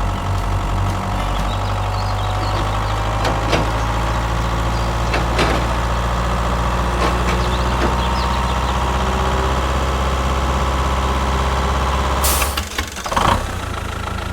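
Engine idling steadily with scattered light clicks. Near the end comes a short burst of hiss, and then the low engine sound drops away.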